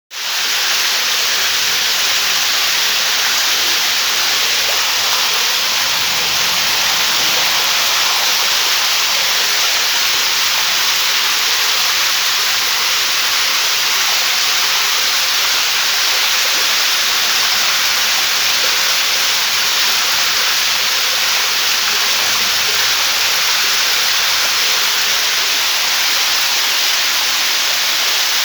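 Heavy rain pouring down in a loud, steady hiss with no let-up.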